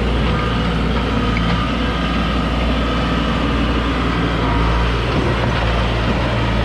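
New Holland LS180 skid steer's diesel engine running steadily.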